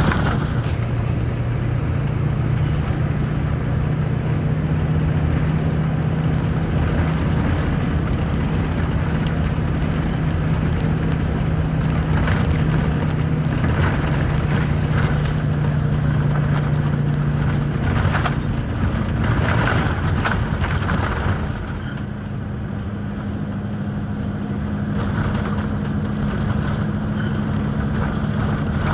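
A truck engine running steadily, with scattered knocks and clatter in the middle stretch; the engine hum thins and drops slightly in level about three quarters of the way through.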